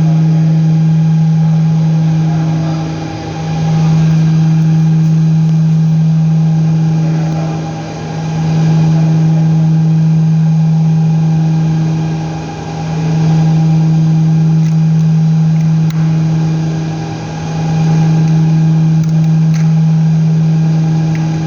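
A loud, steady, low machine hum that dips briefly about every four and a half seconds.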